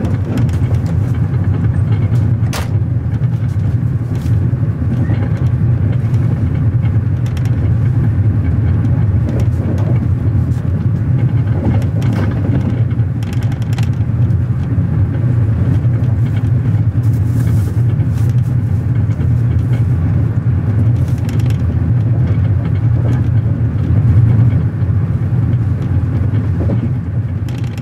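Steady low rumble of a passenger train under way, heard from inside a sleeper cabin, with scattered clicks and rattles.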